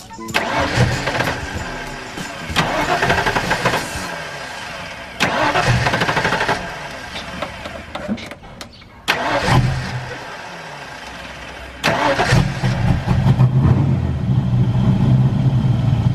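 Ford 5.0 V8 of a Fox-body Mustang firing up and running in about five loud surges with dips between, as if the throttle is being pumped, then holding a steadier run for the last few seconds. It runs roughly after sitting two years on old fuel, with its distributor timing still being adjusted; the owners suspect bad gas.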